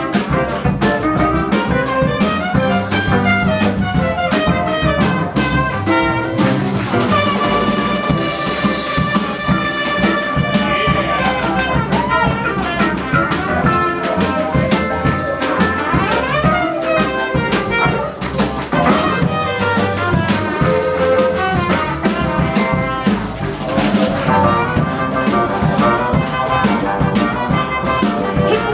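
Live swing band playing an instrumental passage with a steady beat, with long held notes around the middle.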